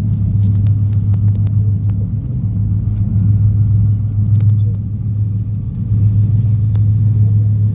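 Passenger train running at speed, a steady low rumble of wheels and carriage heard from inside the coach by a window.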